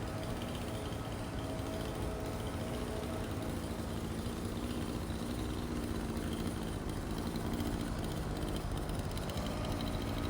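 Echo SRM-2620 string trimmer's two-stroke engine idling steadily.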